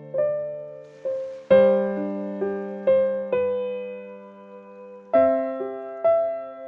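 Slow, gentle solo piano music: single notes struck a few times a second over held chords, each note ringing and fading, with fresh chords about a second and a half in and again about five seconds in.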